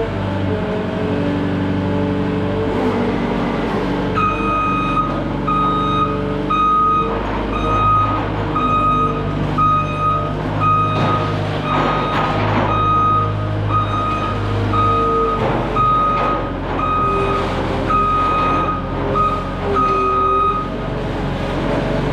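Cat 259D3 compact track loader's diesel engine running, its pitch rising and falling with the work. From about four seconds in until near the end, its reverse alarm beeps roughly once a second.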